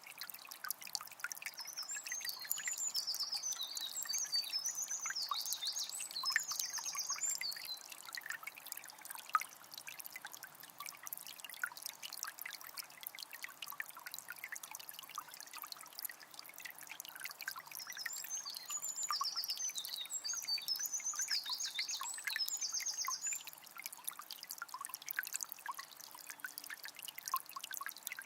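A small spring trickling and dribbling steadily. A songbird sings twice over it, each a phrase of rapid high notes lasting about five seconds, once a couple of seconds in and again about two-thirds of the way through.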